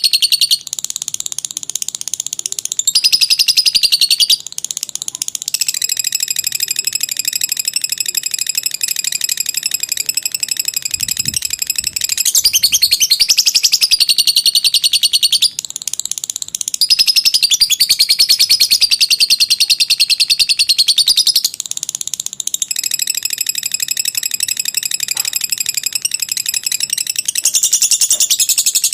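Lovebird giving a long, unbroken 'ngekek' chatter: a rapid, high-pitched trill of fast repeated notes that runs on without pause, growing louder and softer in stretches of a few seconds.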